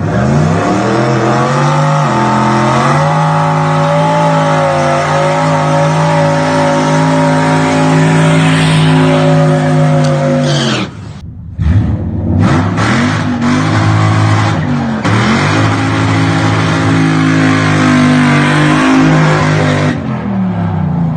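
Toyota UZ-series V8 engine held at high revs. The pitch climbs at the start and holds steady. About 11 s in it drops sharply into a brief lull, then climbs again, holds, and falls away near the end.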